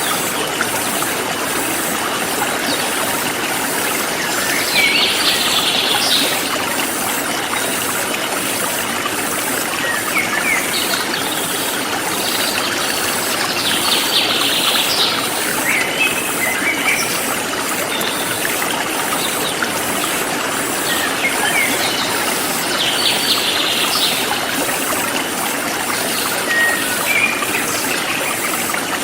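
Forest stream flowing steadily, with birds chirping over it: a short buzzy trill comes about every nine seconds, with brief chirps between. A faint high insect pulse repeats evenly in the background.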